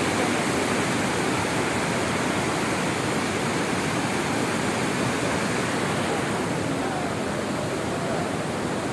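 Waterfall of the Kaveri river at Hogenakkal: a steady, unbroken rush of falling water.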